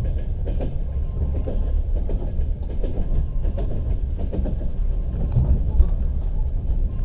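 Passenger train running, heard from inside the carriage: a steady low rumble with scattered short clicks and knocks from the wheels and rails.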